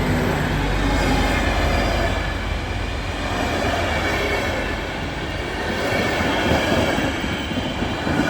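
A train running past close by: a loud, continuous rumble of wheels on rail with a faint high whine or squeal over it.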